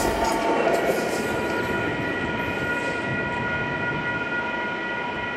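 Metrolink commuter train going away: the low rumble drops off at the start, leaving a steady high ringing of several tones that slowly fades.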